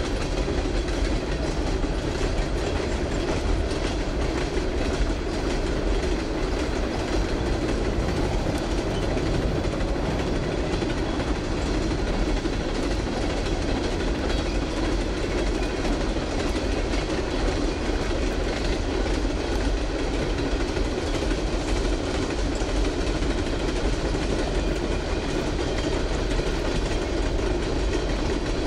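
Freight train rolling past, a steady rumble of railroad cars' wheels on the rails.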